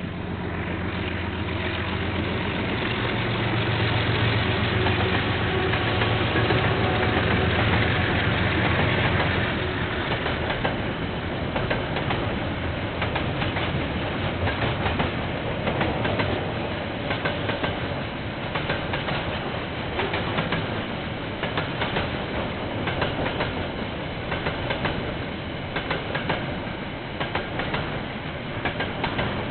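KiwiRail diesel train passing: the locomotive's engine runs loud and steady for about the first ten seconds, then the wagons roll by with a continuous clickety-clack of wheels over the rail joints. Heard through a security camera's microphone, thin and without treble.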